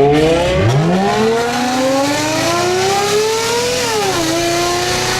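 Car fitted with a Brilliant aftermarket exhaust accelerating hard in a tunnel: the engine note climbs steadily for about three seconds, drops at an upshift about four seconds in, then starts climbing again.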